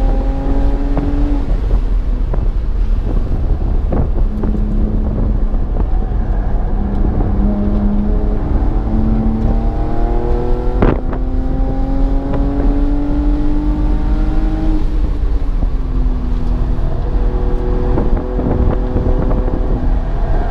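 A BMW's engine heard from inside the car on a racetrack, revving up several times and easing off between, with a heavy low rumble of road and wind noise. Two sharp knocks, about 4 and 11 seconds in.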